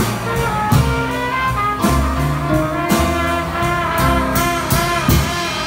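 Live jazz band playing, with a cornet over bass and a drum beat.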